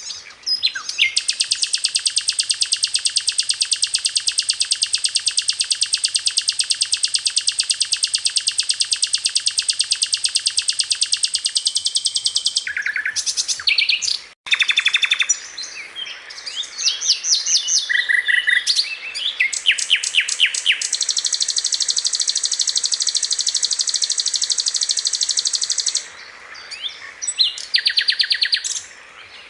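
Sikatan londo flycatcher song: a very fast, high, buzzing trill held for about eleven seconds, then a brief break and a run of varied chirps and short trills, followed by another long high trill.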